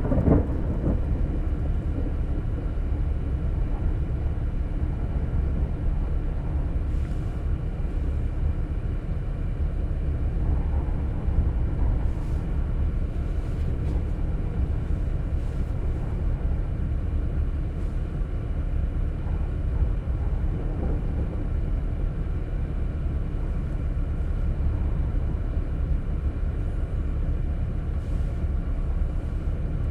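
A steady low rumbling noise, with a louder rumble of thunder dying away at the very start.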